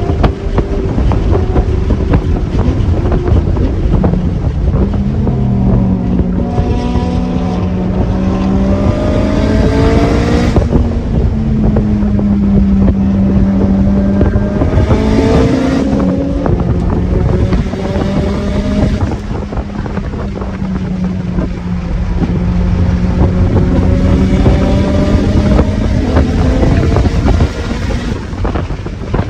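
A performance car's engine and aftermarket exhaust under hard acceleration: the note climbs in pitch and drops back sharply several times, as at gear changes or lifts, with a few steadier stretches at a constant pitch. Heavy wind rumble on the microphone runs underneath.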